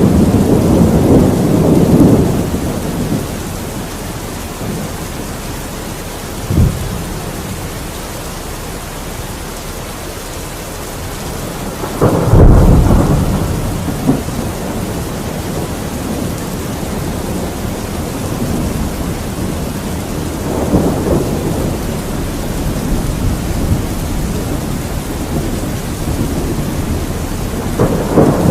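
Thunderstorm: steady rain falling throughout, with rolling thunder. A rumble dies away over the first few seconds, a short sharp crack comes about six and a half seconds in, and the loudest clap, a deep one, comes about twelve seconds in. Fainter rumbles follow later on.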